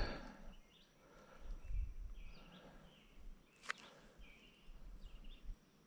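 Faint outdoor background with short bird chirps repeating about once a second, and a single sharp click about halfway through.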